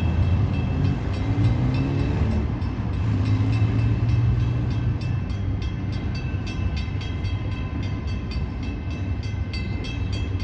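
Train passing close by: a steady low rumble of wheels on rail. In the second half, regular clicks from the wheels crossing rail joints come through.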